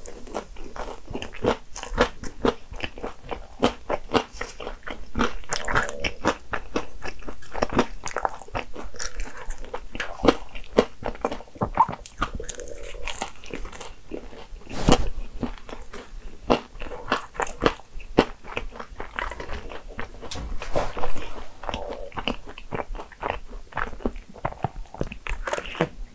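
Close-up chewing and crunching of a chocolate-coated egg tart, with many small irregular crunches and one louder crunch about halfway through.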